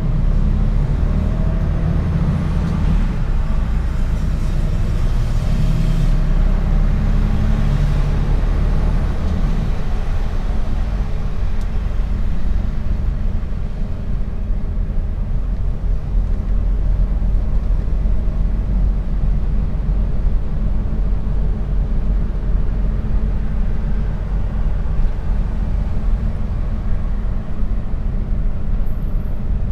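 Mercedes-Benz Actros truck's diesel engine and road noise heard from inside the cab as a steady low rumble. The engine note shifts during the first several seconds, then settles.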